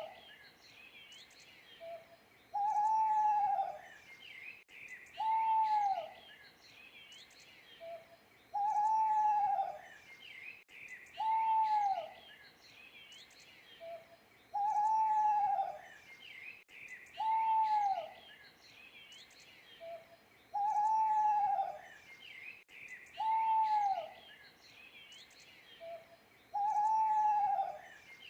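Owl hooting: a drawn-out, arched hoot, about a second long, repeated every three seconds or so, some hoots led by a short soft note. Small birds chirp faintly behind it.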